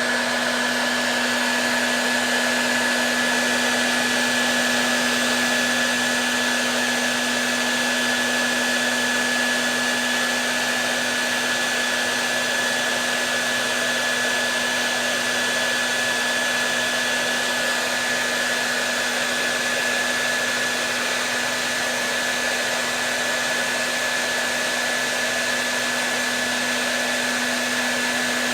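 Hair dryer running steadily: an even rushing blow with a low hum and a thin high whine held at one pitch.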